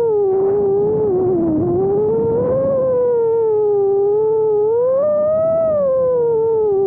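FPV freestyle quadcopter's motors and propellers whining with a steady pitch that rises and falls as the throttle changes, peaking about five seconds in. A rougher rushing noise lies under the whine for the first couple of seconds.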